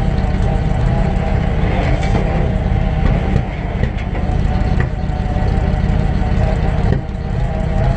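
Motor vehicle engine idling steadily, with a strong low exhaust note that dips briefly twice.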